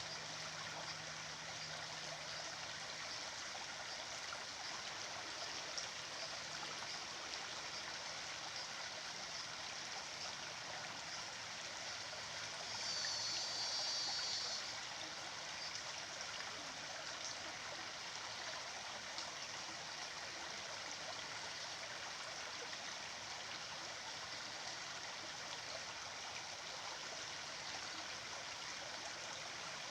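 A stream of running water, steady and unbroken. About halfway through, a brief high-pitched sound rises above it for a couple of seconds.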